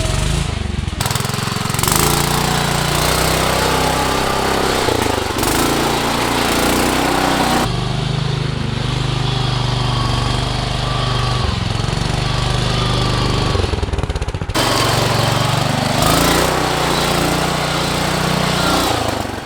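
Modified off-road lawn tractor engine revving hard, its pitch rising and falling under load, with a rough, rattling edge. The sound changes abruptly several times.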